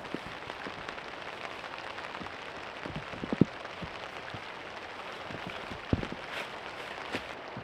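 Rain falling steadily, with louder single drops striking close by. A quick cluster of hits comes about three seconds in and another sharp one near six seconds.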